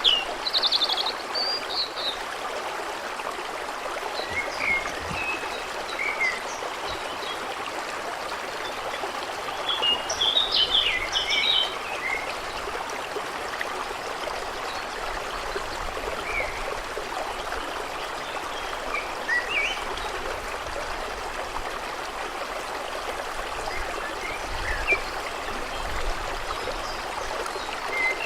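Stream water flowing and trickling steadily, with songbirds chirping now and then, a burst of calls about ten to twelve seconds in.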